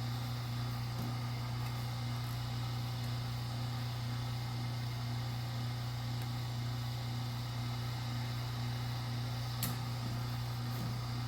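Steady low mechanical hum, with one faint click about ten seconds in.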